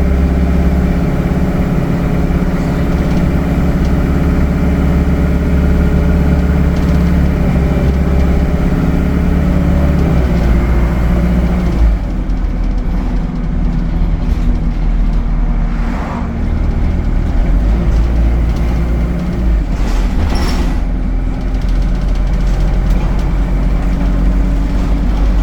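ADL Enviro 200 bus's engine and cooling fan running with a steady hum. About ten seconds in, the tone drops and changes. Two short sharp sounds come later, at about sixteen and twenty seconds.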